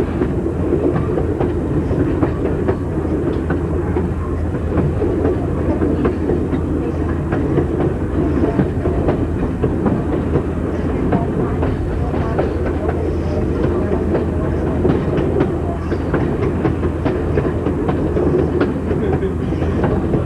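Ex-Illinois Central passenger coach rolling along jointed track: a steady rumble with wheel clicks over the rail joints throughout.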